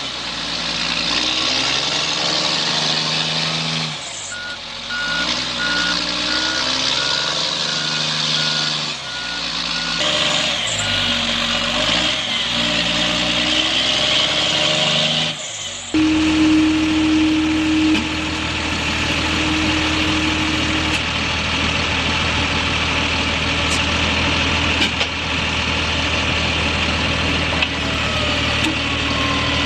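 Heavy vehicle engines running, with a reversing alarm beeping at an even pace for several seconds in the first half. The engine sound changes abruptly several times.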